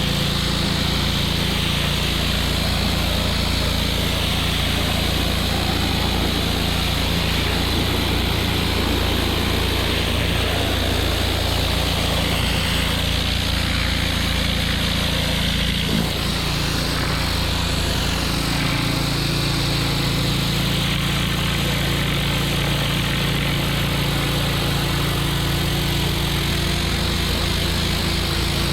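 Gas-engine pressure washer running steadily under load, with the continuous hiss of its high-pressure spray. The engine note shifts slightly about halfway through.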